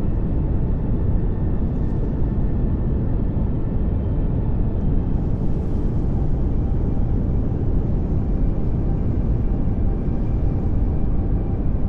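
Steady pink noise: an even, unbroken rushing hiss, fullest in the low end and thinning toward the highs.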